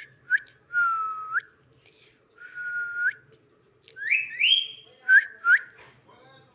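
Pet parrot whistling a run of clear notes: short upward chirps, two long level whistles that flick up at the end, then two rising whistles and two quick upswept chirps near the end.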